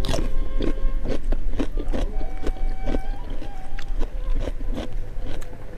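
Close-up chewing and crunching of food eaten by hand, a steady run of sharp crunches about three a second.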